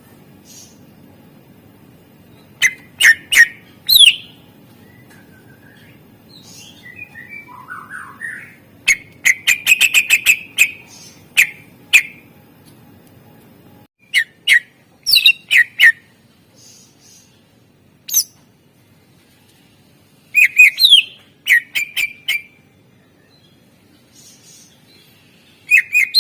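A cucak ijo (green leafbird) singing loud, sharp whistled notes in short clusters, with softer twittering in between and a rapid run of about eight notes a second near the middle; its song is full of imitated calls of other birds. A faint low hum underneath stops about halfway through.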